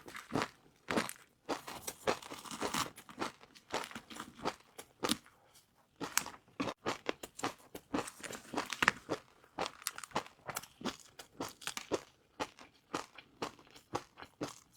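Close-miked chewing of crispy fried noodles: a rapid, irregular run of crunches and crackles, several a second.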